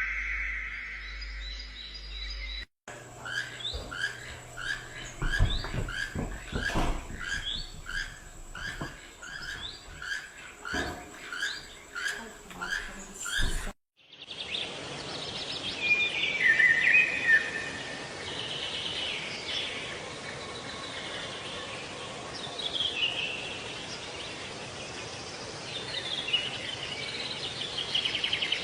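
Birds calling in separate recordings that cut abruptly from one to the next. First, short chirps repeat about once a second, with higher chirps between. Then varied calls come over a steady hiss.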